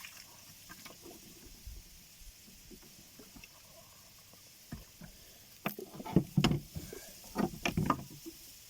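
Small boat being rowed on the water: sharp splashes and knocks of the strokes, a few at first and then a cluster in the second half, the loudest near the end.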